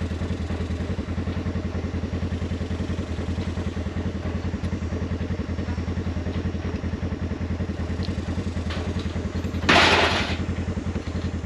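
Vehicle engine idling steadily with an even pulsing beat. A short, loud burst of noise cuts in about ten seconds in.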